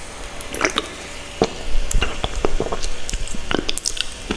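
Close-miked mouth sounds of eating saucy instant ramen noodles: irregular wet clicks and smacks of chewing, several a second.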